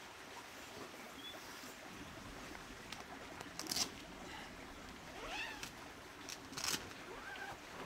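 An animal giving two short rising calls, one about five seconds in and another near the end, with a few sharp clicks and knocks over a steady background hiss.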